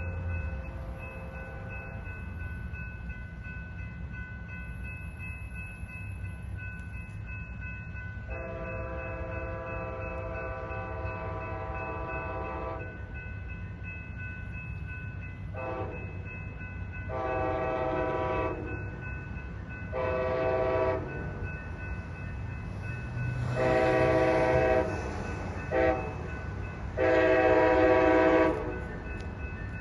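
A train's air horn sounding a chord in a series of long and short blasts, beginning about eight seconds in, over the steady low rumble of the train.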